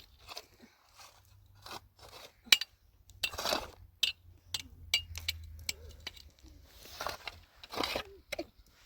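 Kitchenware being handled: a string of sharp clicks and light clinks, with a few short scrapes in between.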